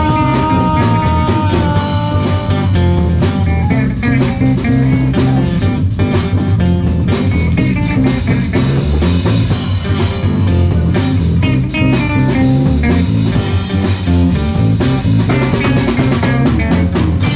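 Live rock band playing an instrumental passage without vocals: lead guitar playing held, sustained notes over bass guitar and drum kit.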